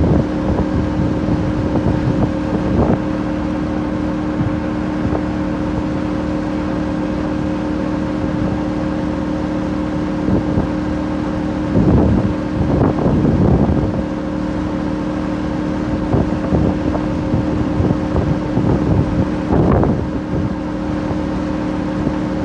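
Tractor diesel engine running at a steady speed, with wind buffeting the microphone in gusts, strongest a little after halfway and again near the end.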